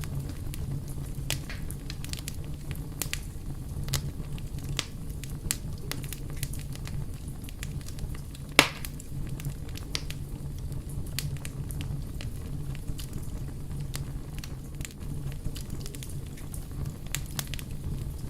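Wood fire burning, a steady low rumble under irregular crackles and small pops, with one much louder pop a little past halfway.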